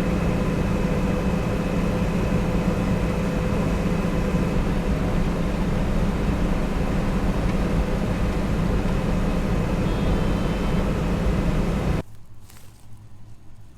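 Diesel engine of large harvest machinery running steadily under load, a constant drone with a steady whine over it. About twelve seconds in it cuts off abruptly to a much quieter background.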